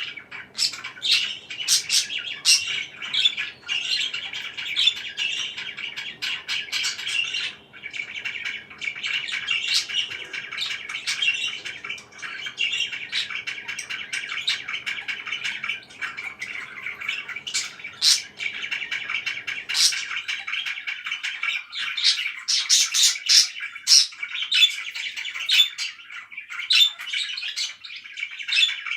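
Pet parakeets chattering and chirping continuously, with frequent sharp squawks. A faint low background hum stops about 20 seconds in.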